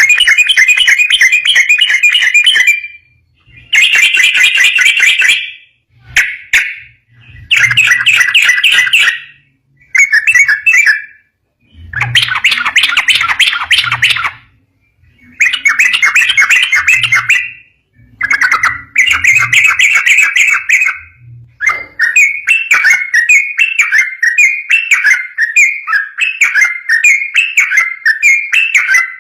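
Yellow-vented bulbul singing its rapid, rolling, chattering song in bursts of one to three seconds separated by short pauses, running into an unbroken stream of quick phrases in the last several seconds.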